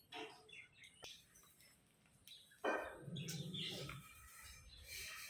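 Pet parrot chirping in short calls, with a sudden louder, noisier sound about halfway through.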